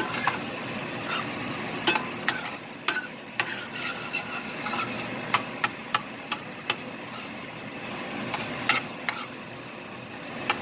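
A cooking utensil stirring ground chicken in a pan, with irregular sharp clicks and scrapes of the utensil against the pan over a steady low sizzle.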